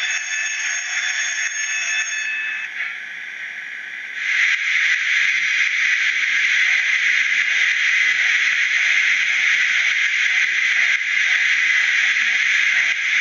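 Sampled steam-locomotive sounds from the DCC sound decoder in a model D52 steam locomotive, played through its small speaker. A chord of steady high tones stops about two seconds in, and from about four seconds a loud, steady steam hiss sets in and holds.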